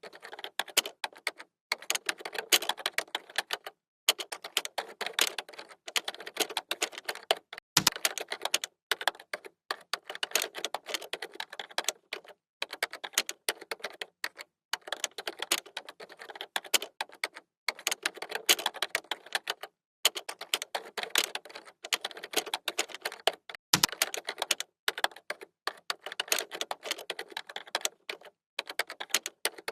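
Computer keyboard typing: fast runs of key clicks lasting a second or two, separated by short pauses. Twice, about 8 and 24 seconds in, a heavier, deeper key strike stands out.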